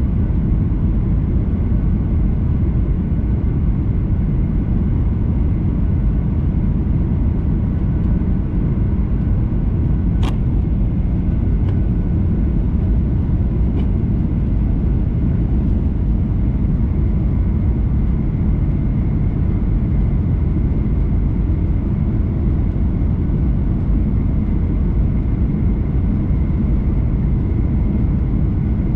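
Steady cabin noise inside a Boeing 737-800 airliner: a dense, even rumble of engines and airflow with faint steady whining tones above it. There is a single sharp click about ten seconds in.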